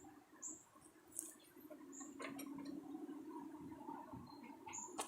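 Faint workshop sounds: short high chirps about four times, a couple of light clicks, and a low steady hum that sets in about a second and a half in.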